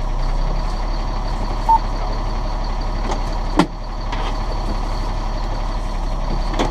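Fire engine's diesel engine running with a steady rumble, a short beep about two seconds in and a sharp click about halfway through.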